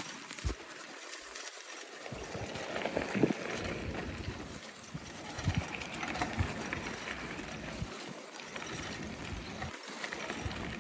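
Bicycle rolling along a dirt trail: an even hiss with scattered knocks and rattles as it goes over bumps.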